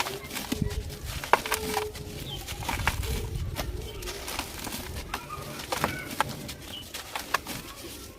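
Dry, dusty chunks crumbling and crunching in the hand, with sharp crackles and snaps, the loudest about a second in. Short low calls of a bird, like cooing, sound in the background now and then.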